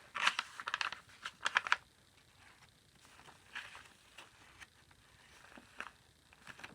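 Paper rustling with quick light taps and slides as stiff paper journaling cards and pages are handled, busiest in the first two seconds and then only a few soft rustles.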